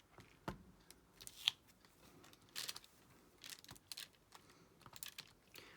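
Irregular small plastic clicks and short scratchy rustles from diamond painting: a drill pen picking resin drills out of the tray and pressing them onto the sticky canvas.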